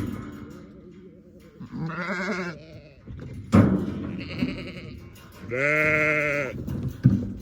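Sheep bleating: a bleat about two seconds in and a longer, louder one about six seconds in, with a sharp knock in between.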